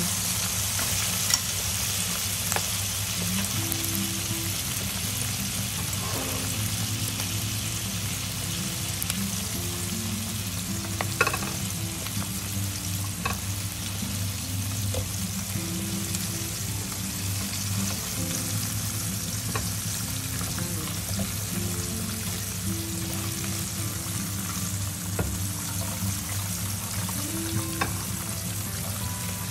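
Pork trotters deep-frying in a pot of hot oil: a steady sizzle and bubbling, with a few light clicks now and then. Soft background music runs underneath.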